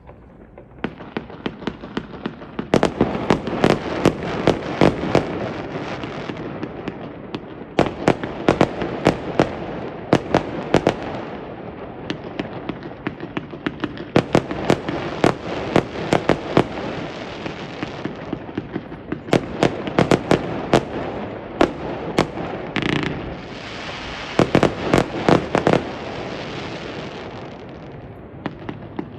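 Fireworks going off: clusters of rapid sharp bangs and crackling come every few seconds over a continuous rumble and hiss.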